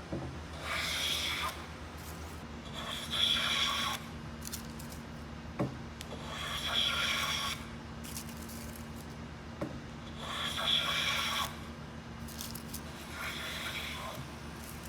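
Slow strokes of a hand tool or abrasive rubbing across wood: about six strokes, each lasting about a second and a couple of seconds apart, with a light tap between some of them.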